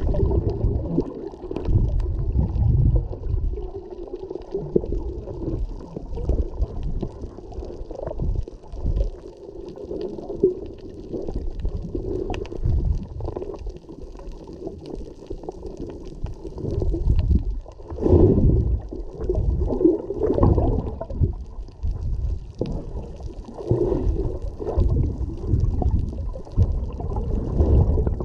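Heavily muffled, surging low rumble of water and wind on a moving jet ski, with the jet ski's engine humming steadily underneath.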